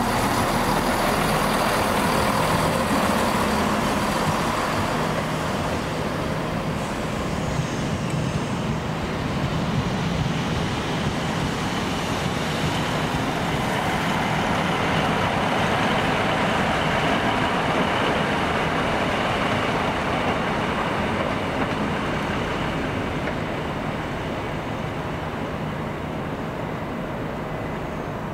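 Passenger train running through the station: a steady engine and rolling noise that slowly fades over the last few seconds.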